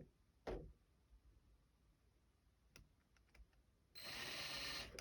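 A few faint clicks of small tools and plastic model parts being handled, then about a second of loud rushing, hiss-like noise near the end.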